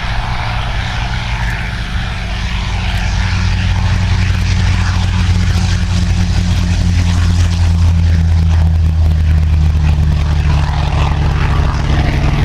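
Piston-engined World War II propeller warbird flying past, its engine a steady low drone that grows louder toward the middle and eases slightly near the end.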